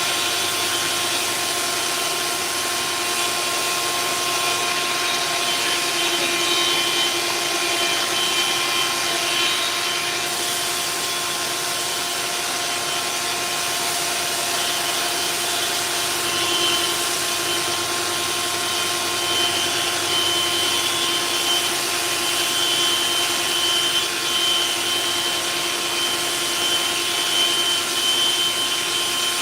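Dual-mode orbital sander running steadily while sanding epoxy fairing compound on a steel hull: a steady motor whine over a broad sanding hiss, swelling slightly now and then.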